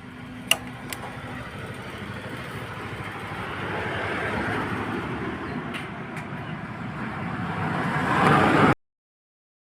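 Motorcycle engine running, growing steadily louder, with a sharp click about half a second in.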